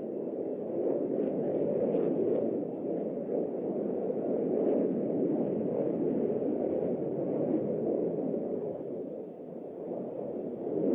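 Steady rumbling noise of jet aircraft flying overhead, dipping briefly near the end before rising again.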